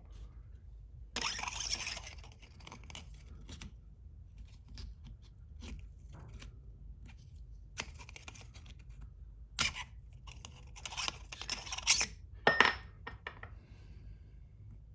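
Hand work on transmission seal-installer tools and parts: intermittent scraping and rustling with sharp clicks, the loudest clicks near the end.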